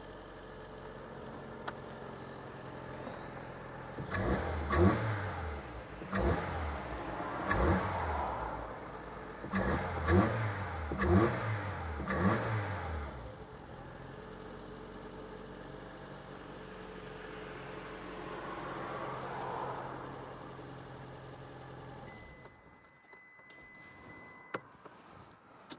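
Ford Fiesta Mk5's four-cylinder petrol engine idling with the air filter off, so the intake sound is plain. It is blipped through a series of quick revs and settles back to idle, running a little better on new spark plugs and plug wires. The sound drops away shortly before the end.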